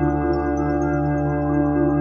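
Ambient synthesizer music: a thick, sustained low drone chord held steady, with faint short high plinking notes scattered over it.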